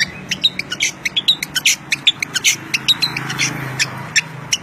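Songbird singing energetically: a dense run of rapid short chirps and whistles, several notes a second, over a low steady hum.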